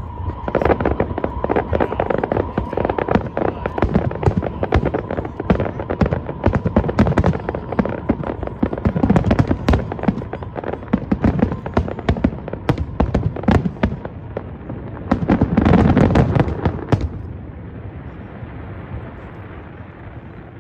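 Aerial fireworks display: a rapid stream of crackling bangs and shell bursts that builds to a dense, loud finale volley about 15 seconds in. The volley stops suddenly about two seconds later, leaving a low crowd hubbub.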